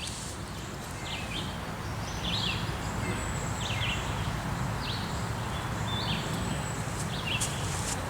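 A bird repeating a short, high call about once a second over a steady low background noise.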